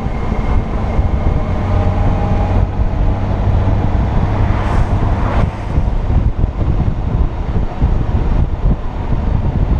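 Honda Gold Wing GL1800's flat-six engine running steadily at road speed while riding, with wind rushing over the microphone.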